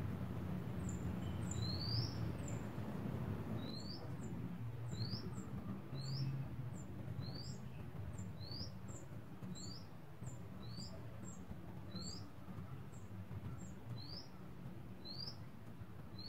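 A bird chirping: short rising chirps repeated about once a second with a pause partway through, and fainter high notes in between, over a low steady hum.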